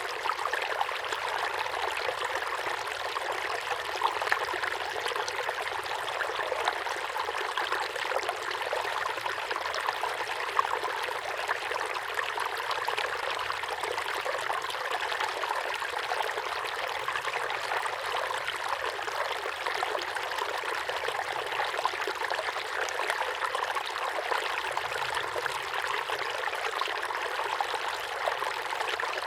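A small waterfall pouring steadily into a pond: continuous splashing water with a light, hissy character and little low rumble.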